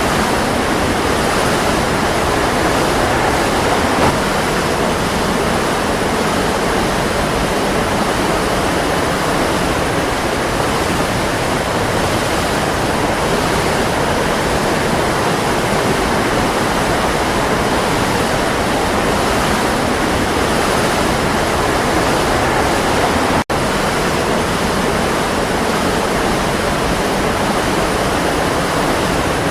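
Waterfall: water falling and rushing in a loud, steady roar, with one split-second dropout about 23 seconds in.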